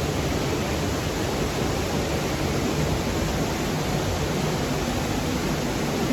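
Steady rush of fast-flowing mountain stream water, an even hiss and roar without break.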